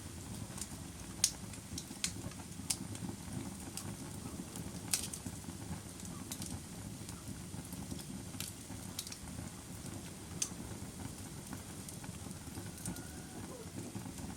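Bonfire crackling: irregular sharp pops and snaps, loudest about a second in and about five seconds in, over a steady low rush of burning.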